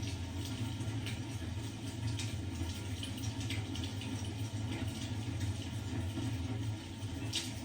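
Wood fire crackling in a fireplace: irregular small pops and snaps over a steady low rumble, with a brief cluster of louder pops near the end.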